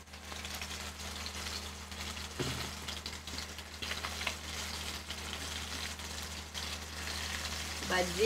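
Gram-flour-battered fish fritters sizzling steadily as they deep-fry in hot oil in a kadai, with a low steady hum underneath.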